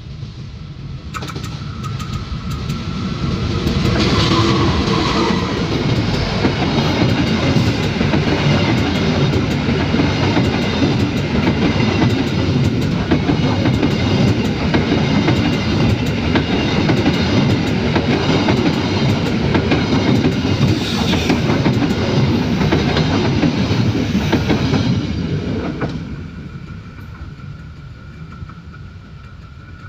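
Passenger train passing close by at about 50–70 km/h, its wheels clattering over the rails. The sound builds over the first few seconds, stays loud for about twenty seconds, then falls away quickly near the end.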